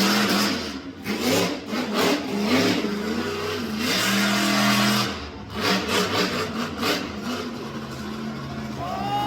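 Monster truck engine revving hard in repeated surges and lifts of the throttle, dropping to a lower, steadier run over the last two seconds.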